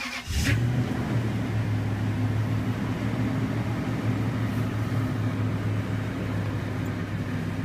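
Toyota Tundra's V8 on a cold start in freezing weather after sitting for about two weeks: it catches about half a second in and settles into a steady idle.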